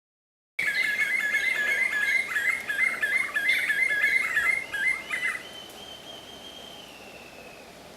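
Black-fronted nunbird calling: a fast, continuous run of loud, quickly repeated notes that starts abruptly about half a second in and stops about five seconds in. A faint, long, slightly falling whistle-like tone follows.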